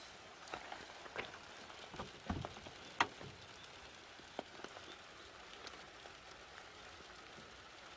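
Rain falling in a steady patter, with scattered drops ticking sharply and irregularly on nearby surfaces; the sharpest tick is about three seconds in.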